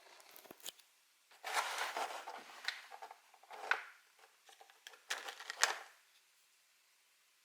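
Hands handling Pokémon card booster packs and promo card packaging: rustling and crinkling in three short bouts, with a few sharp clicks.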